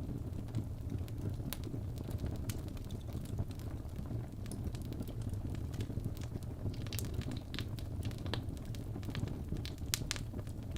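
Wood fire burning in a fireplace: a steady low rumble of the flames with irregular sharp crackles and pops from the burning logs, coming thicker in the second half.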